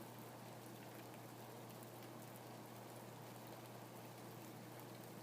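Faint, steady rain falling, with a light patter of scattered individual drops.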